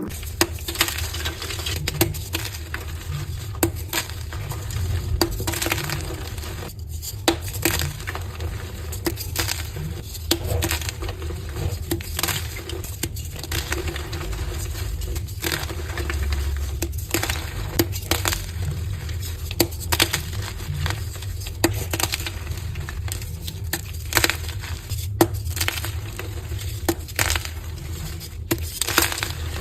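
Dyed soft gym chalk being crushed: irregular sharp crunches and crumbling about every second or so, over a steady low rumble.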